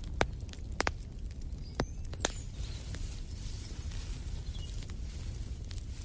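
Wood fire burning in a fireplace: a steady low rumble with sharp crackles and pops, several in the first two seconds or so.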